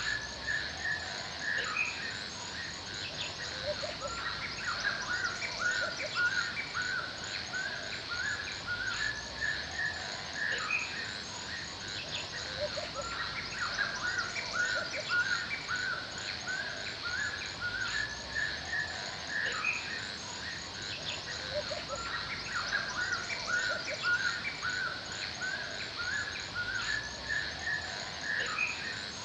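Forest birdsong: several birds chirping and calling continuously, some high and rapid, over a steady high-pitched background hiss.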